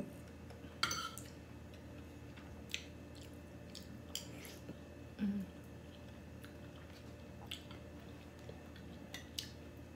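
A person chewing and eating a mouthful of bulalo beef at close range, with scattered wet mouth clicks and smacks over a faint steady hum.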